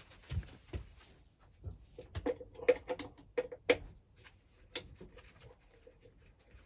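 Clicks and knocks of hands working on a lawnmower's parts, with a quick cluster of sharp clicks about two to four seconds in.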